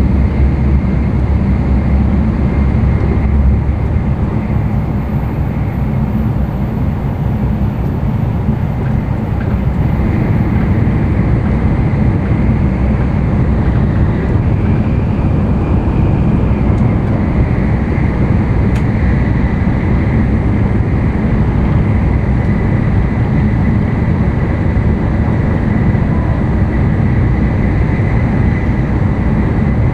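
Running noise of an N700-series Tokaido Shinkansen at speed, heard inside the passenger car: a steady low rumble and rush with a faint high whine.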